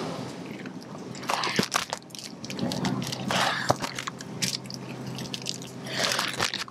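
Plastic food packaging crinkling and clicking in several short, irregular bursts as packs are picked up and handled.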